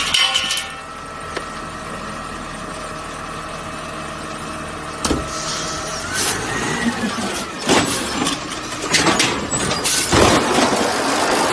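Garbage truck at work: a steady engine whine, then from about halfway a whine that rises and falls, and a run of loud clanks and hisses that grows busier toward the end.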